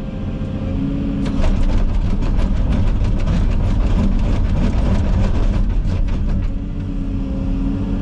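Komatsu 360 excavator's diesel engine working under load, with rapid cracking and snapping from about a second in until near the end as the bucket is opened and closed quickly against the thumb, chewing up brush.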